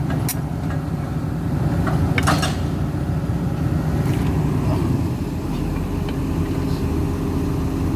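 Cat 320D2 excavator's diesel engine running steadily at low speed, with a couple of short metallic knocks about a quarter second and two seconds in.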